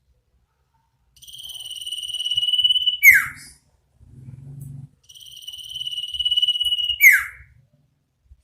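Iora (sirtu) singing two long drawn-out whistles, each swelling in loudness and ending in a quick downward-slurred note. A faint low buzz comes between the two calls.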